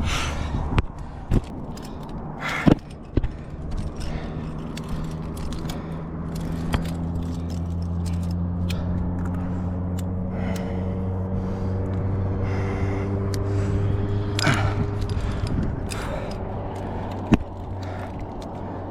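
Climbing gear clinking and scraping in short sharp clicks, with a few heavy breaths from a climber working hard, over a steady low engine drone from a vehicle.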